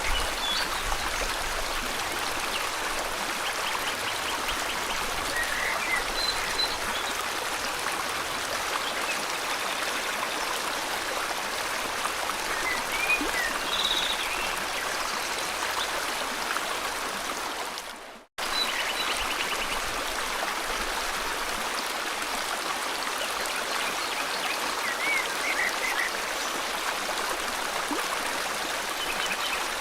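Steady rush of a flowing river, with small birds chirping and trilling now and then over it. About two-thirds of the way through, the whole sound fades and drops out for a split second, then comes straight back.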